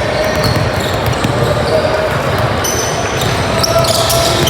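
Game sounds of a youth basketball game: the ball bouncing on the court and short squeaks over a steady din of crowd and players.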